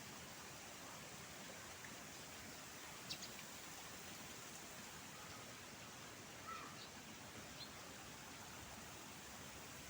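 Faint steady hiss of outdoor park ambience, broken by a few faint short high chirps about three seconds in and again a little past the middle.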